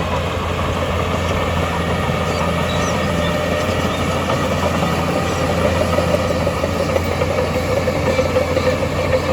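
Heavy diesel engine of earthmoving equipment running steadily at a constant speed, with an even low hum.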